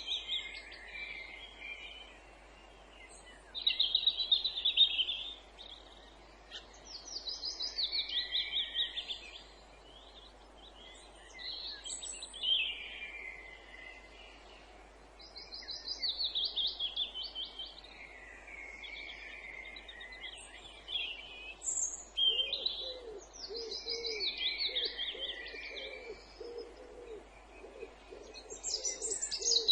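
A songbird singing the same short, fast trill over and over, about every four seconds, each phrase falling in pitch toward its end. From about two-thirds of the way through, a run of low, evenly spaced hooting notes sounds beneath it.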